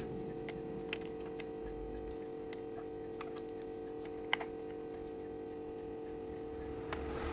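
Scattered light clicks of plastic building-block pieces being handled and fitted, a few seconds apart, with the sharpest about four seconds in, over a steady low hum.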